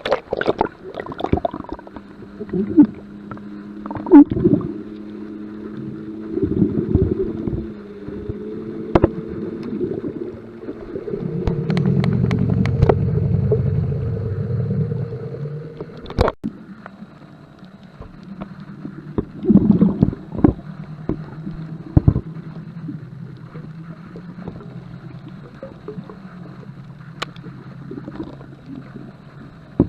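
Boat motor running steadily, with a louder low rumble for a few seconds midway, and scattered knocks and bumps.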